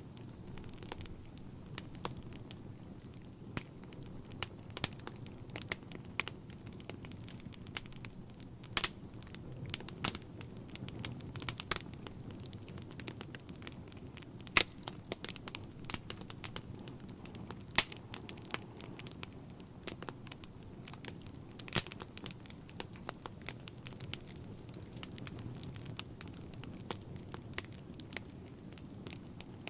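Wood fire crackling in a fireplace: irregular sharp pops and snaps, a handful of them louder, over a steady low rumble of the burning.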